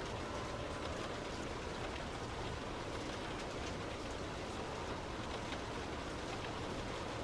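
Heavy rain pattering steadily on a moving car, many small drops ticking over a constant hiss of wet road noise.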